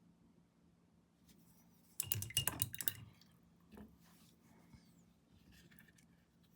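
A rapid run of clinks from a hard object knocking against glass, lasting about a second and starting about two seconds in, followed by a couple of faint taps.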